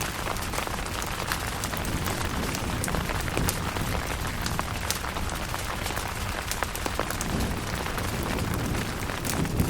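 Steady rain falling, with many sharp drop ticks over an even hiss. A low rumble runs underneath and begins to swell near the end.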